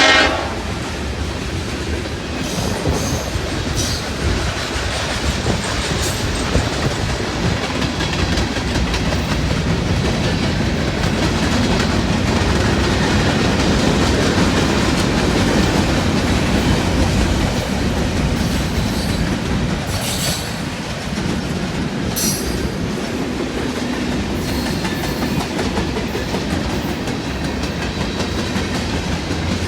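Train rolling past: a steady rumble and clatter of railcar wheels on the track. A horn note cuts off right at the start, and there are brief high-pitched wheel squeals about 20 and 22 seconds in.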